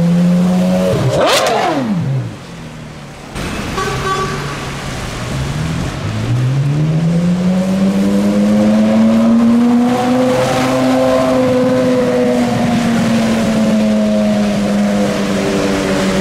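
Gemballa Mirage GT's Carrera GT-based V10 accelerating, its note climbing in pitch and then sweeping down sharply about a second and a half in. From about six seconds in it rises again and holds a high, steady note to the end.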